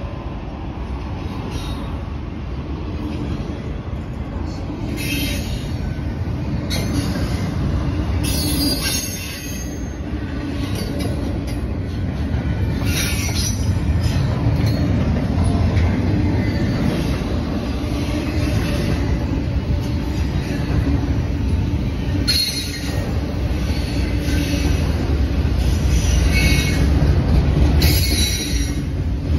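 Norfolk Southern manifest freight train's cars rolling past at a grade crossing: a steady low rumble of steel wheels on rail, with squeals from the wheels breaking out in short bursts every few seconds.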